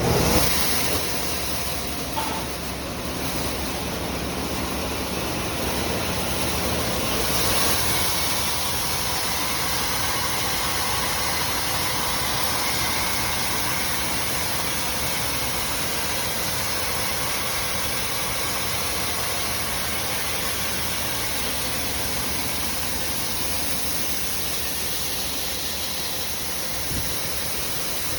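Wheat cleaning and washing machinery running: a steady rushing noise mixed with mechanical hum.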